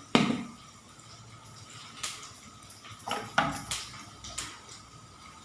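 Metal kitchen utensils knocking and clinking against a pan, about half a dozen separate sharp knocks spread out.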